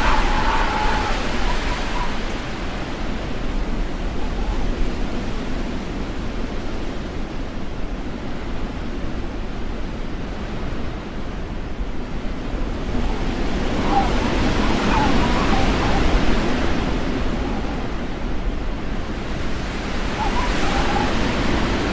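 Storm wind gusting in a steady rushing roar, with heavy low buffeting on the microphone, swelling louder about two-thirds of the way in.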